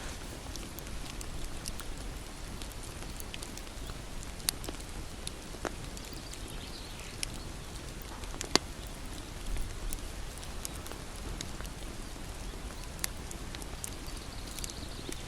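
Wood fire crackling: a steady hiss with scattered sharp pops and snaps, the loudest snap about two-thirds of the way through.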